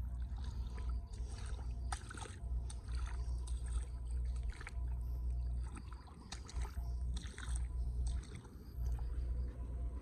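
Water splashing and sloshing in short, irregular bursts over a low rumble that swells and fades.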